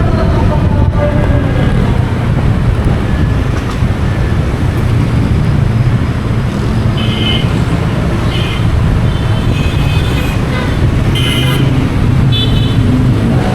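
Motorcycle taxi riding through city traffic: a steady engine and road rumble, with several short horn toots in the second half.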